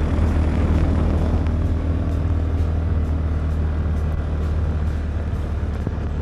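Polaris Ranger 570 side-by-side's single-cylinder engine running steadily under way, a low drone over a rush of tyre and snow noise, easing off slightly near the end.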